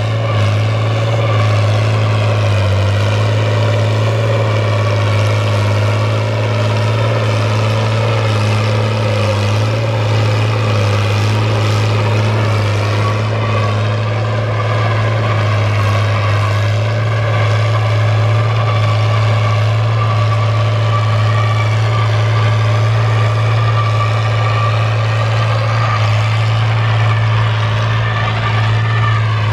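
Fiat 1000 DT tractor's diesel engine running steadily under load while deep plowing: a constant, even low drone.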